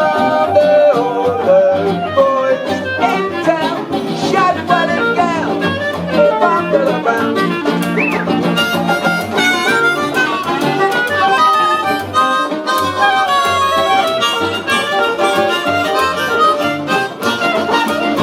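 A small band playing live: an instrumental passage with a lead melody line over rhythm accompaniment.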